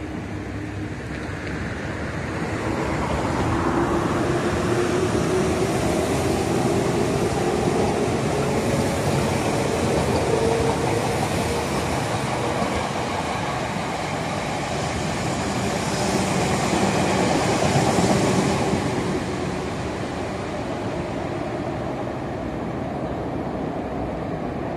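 Electric trains passing below, one a red-and-white Meitetsu train, with a steady rumble of wheels on rail. A motor whine rises slowly in pitch over the first ten seconds as a train gathers speed, and the noise swells again near the end as the trains pass.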